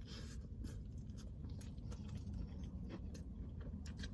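Chewing a fried chicken sandwich, with many small, irregular crisp crunches and mouth clicks.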